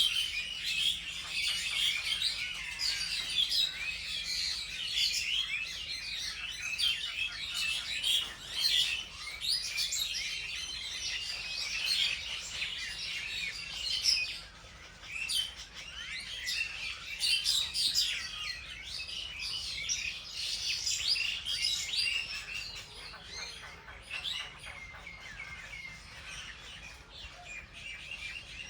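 A flock of small birds chirping, many short high calls overlapping into a busy chorus that thins out somewhat in the last few seconds.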